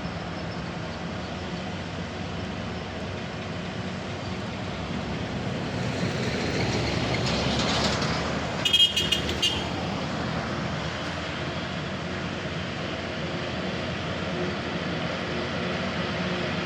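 Truck engines running in a steady drone, with one vehicle growing louder as it passes about six to eight seconds in. Near nine seconds comes a quick run of short, sharp, high-pitched sounds.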